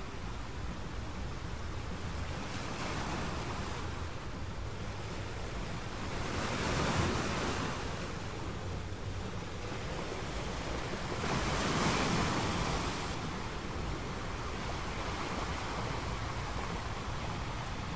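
Ocean waves washing on a shore in a steady surf, with two louder waves breaking about seven and twelve seconds in.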